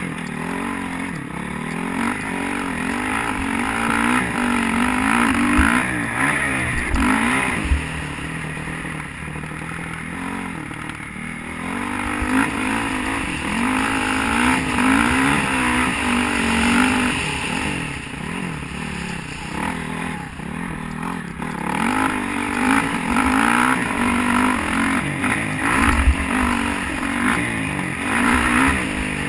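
A 2012 Honda CRF450 motocross bike's single-cylinder four-stroke engine being ridden hard. Its pitch climbs under throttle through several long runs and drops back between them as the rider shifts and backs off.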